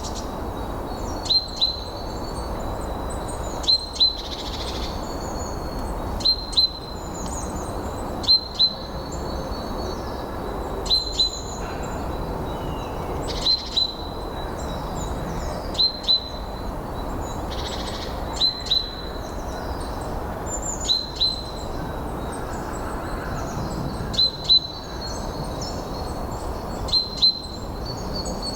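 Songbirds calling over steady wind noise. One bird repeats a sharp, high double note about every two and a half seconds, the loudest sound, with fainter chirps from other birds between.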